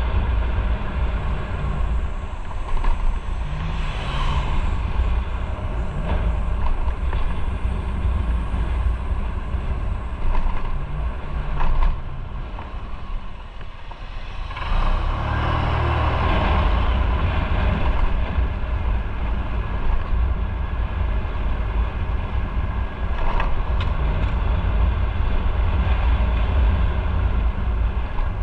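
Motorcycle under way: engine running with wind rushing over the microphone. The sound drops away briefly about halfway through, then picks up again.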